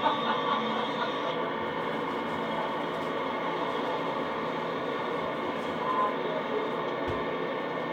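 A steady engine drone holding one even pitch and level, with no revving or gear changes.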